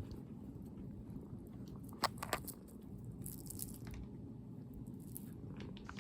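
Domestic cat purring, a steady low rumble close to the microphone, with a few short crunchy clicks, the loudest about two seconds in.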